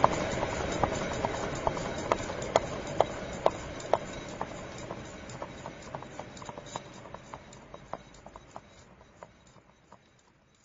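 A car wheel spinning freely and coasting down: a steady whir with a tick on each turn, about two a second at first, the ticks slowly spacing out as the wheel slows and the sound fades away.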